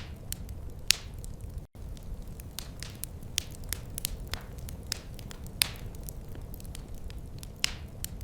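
Wood fire crackling, with frequent sharp pops and snaps over a low steady rumble. The sound cuts out for an instant a little under two seconds in.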